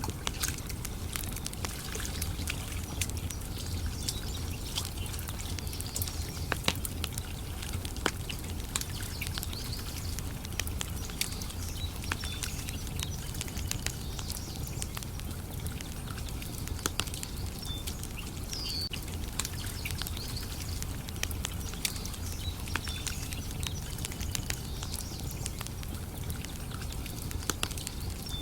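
Campfire crackling, with frequent sharp pops and snaps over a low steady rumble, and a bird chirping now and then.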